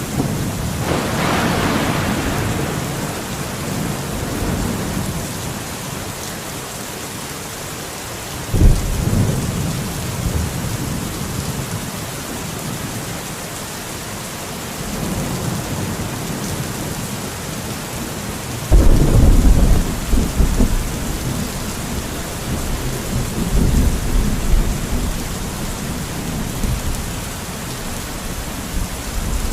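Steady rain with rolls of thunder: a crackling peal about a second in, a sharp clap about nine seconds in and the loudest clap about two-thirds of the way through, each rumbling on for several seconds.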